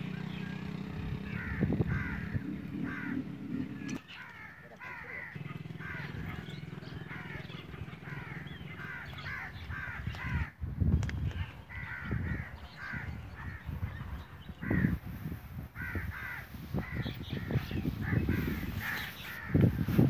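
Birds calling over and over in short, repeated calls, with a steady low rumble for the first few seconds. Low thumps and rustling come in during the second half and are loudest at the very end.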